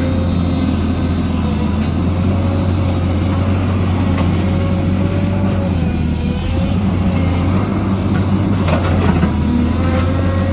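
Heavy diesel engine of an excavator running steadily, with a wavering whine above it and a few short knocks about three-quarters of the way in.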